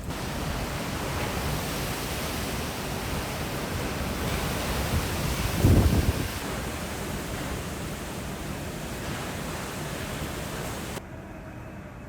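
Typhoon wind and rain rushing hard as a steady roar of noise, with a loud gust about six seconds in; the sound drops abruptly near the end.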